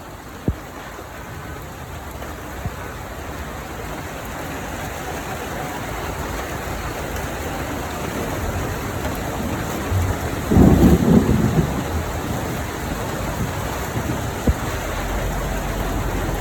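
Heavy rain pouring down, slowly growing louder, with a short loud low rumble about ten seconds in and a few sharp clicks.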